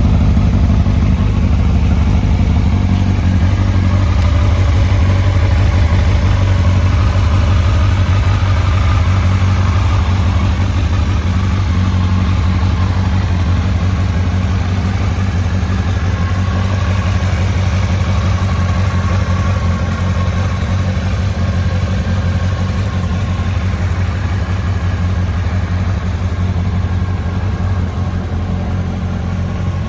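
2005 Honda CBR1000RR Fireblade's inline-four engine idling steadily.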